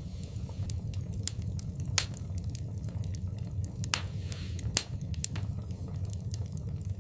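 Wood fire crackling in a fireplace: sharp pops at irregular intervals over a steady low rumble, the loudest pop about two seconds in, and a brief hiss a little after four seconds.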